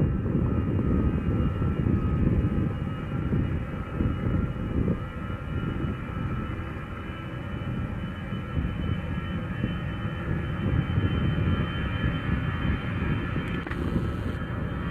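Airbus A320-214 jet airliner's CFM56 turbofan engines at takeoff thrust: a deep rumble with a faint steady whine above it.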